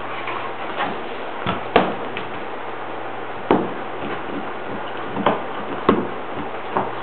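A Bernese Mountain Dog chewing a hard dental chew toy: irregular sharp clacks of teeth on the toy, about six of them, over a steady hiss.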